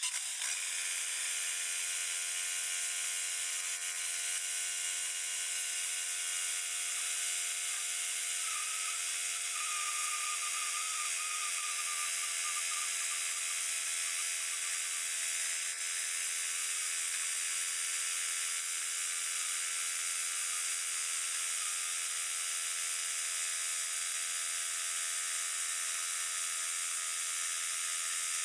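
Portable sawmill running steadily under load as it cuts through a log, a continuous mechanical whir with a faint higher tone a third of the way through.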